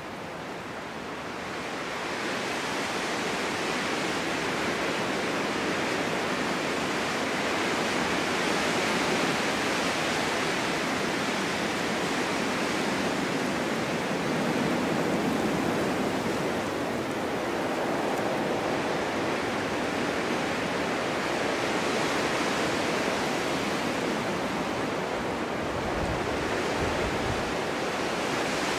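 Snowstorm wind blowing in a steady rush that swells over the first couple of seconds, then rises and falls gently in slow gusts.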